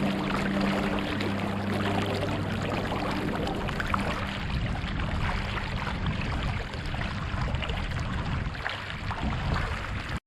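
Steady rush of moving river water, with a low hum in the first few seconds.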